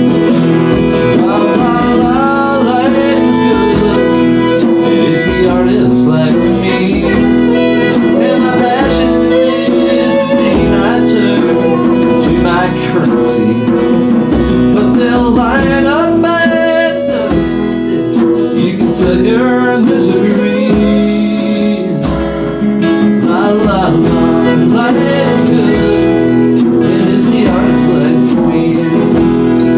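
Instrumental break of a folk song: acoustic guitar strumming steadily under a violin playing a sliding melody.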